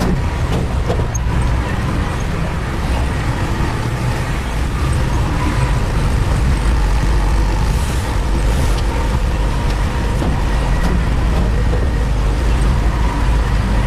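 Construction machinery engine running steadily: a loud, even low rumble with a faint steady whine above it.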